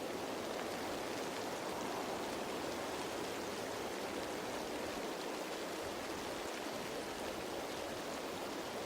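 Rain falling on leaves, a steady, even hiss of many drops with none standing out.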